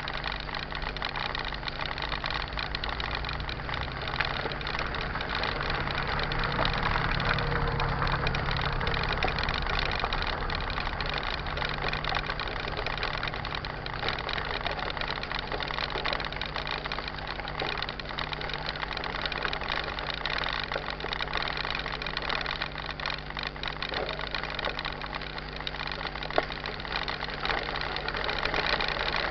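Mountain bike being ridden on a trail: a steady rumble and rattle with many small knocks throughout.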